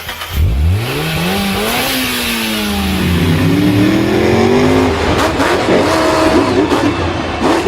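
A vehicle engine revving. It sweeps up in pitch about half a second in, falls back, climbs again, then runs on with quick rises and falls.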